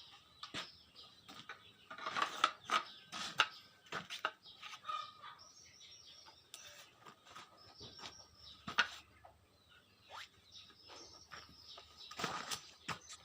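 Irregular light clicks and taps, with birds chirping in the background.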